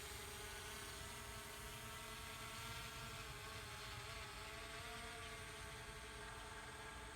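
DJI Mavic Pro quadcopter's propellers giving a faint, steady whirring buzz as the drone climbs away, with several tones that drift slightly in pitch.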